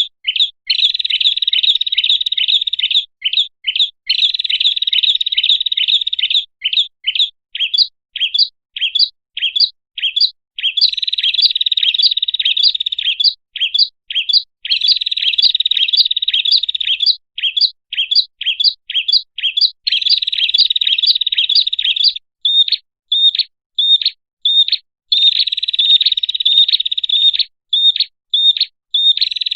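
Prenjak (prinia) song as played in a bird-lure call: long, fast, buzzy trills alternating with runs of separate, quick downward-swept chirps, high-pitched and repeating throughout.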